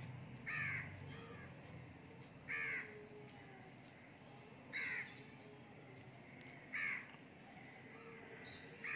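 A bird calling in short calls, repeated about every two seconds, five times.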